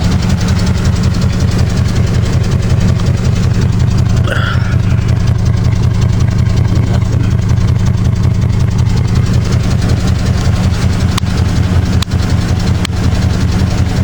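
Dodge Ram pickup's engine idling steadily with an even, low rumble while Blue Devil head gasket sealant circulates through the cooling system to seal a leaking head gasket.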